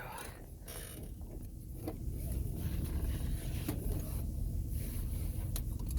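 Cargo van's engine idling, heard from inside the cab as a steady low rumble, with a few faint clicks.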